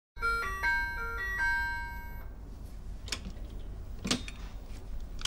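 Electronic melody doorbell playing a short tune of about six clear notes over some two seconds, followed by two sharp clicks.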